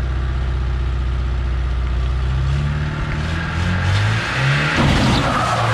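1986 Toyota pickup truck's engine idling steadily, then revved up and down several times from about two and a half seconds in, with a louder rush of noise near the end.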